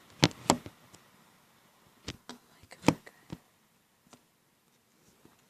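A handful of short, sharp clicks and taps, about six spread over five seconds, with quiet between them and no steady wind noise.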